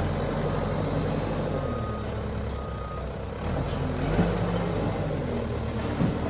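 Diesel engine of heavy earthmoving machinery running steadily, with a couple of short high beeps about two to three seconds in.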